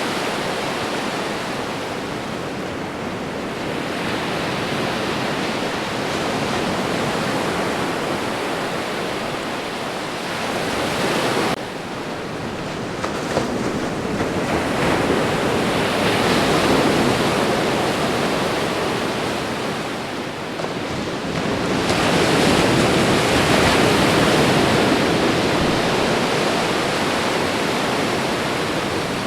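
Ocean surf: a continuous rush of breaking waves that swells and ebbs, with an abrupt dip about a third of the way in and louder surges past the middle and again later on.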